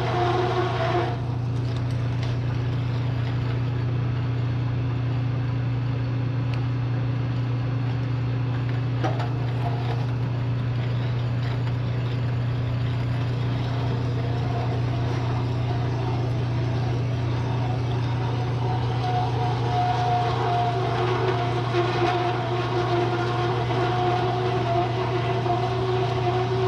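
Bridgeport milling machine running with a steady motor hum while a hole saw cuts into steel tube. A pitched cutting whine drops out about a second in and returns in the last third.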